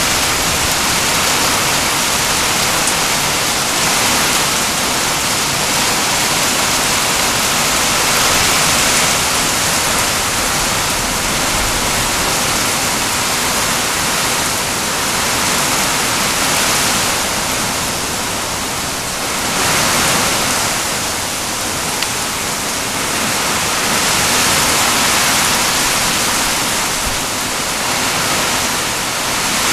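Heavy rain pouring down, a dense steady hiss that swells and eases a little now and then.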